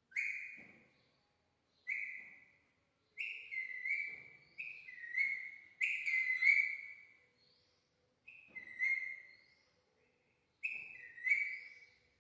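Parrot giving repeated whistled calls. Each is a short note that drops slightly in pitch, coming singly or in quick runs of two or three, with short pauses between.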